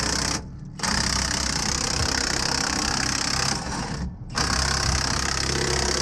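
Impact wrench running on the driveline bolts of a semi tractor's driveshaft, a steady rattle that stops briefly twice, about half a second in and about four seconds in, as the trigger is let off.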